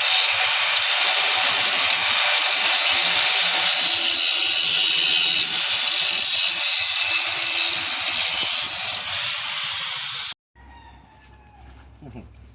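Angle grinder grinding old undercoating off a steel truck frame, running steadily at a high whine, then cutting off abruptly near the end.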